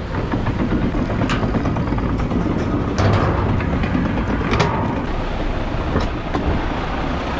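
A truck engine running under a steady rattle of debris, with a few sharp clanks about one, three, four and a half and six seconds in, as a dump trailer is emptied of a mixed construction-debris load (bags, drywall, wood, carpet).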